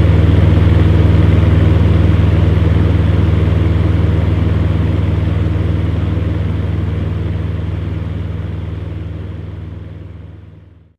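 Electric fan heater running: a steady low hum with an even rush of blown air, fading out gradually over the second half until it is gone at the end.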